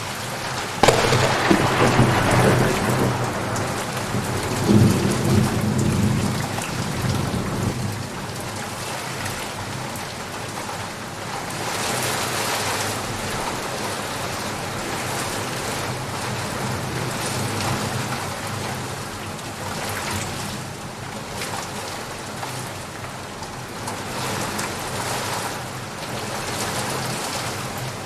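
Steady rain with a thunderclap that breaks about a second in and rumbles on for several seconds before fading, leaving rain alone.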